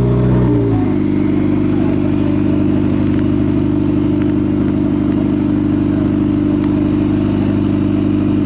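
Race car engine running close by. Its pitch drops about a second in and then holds steady at idle.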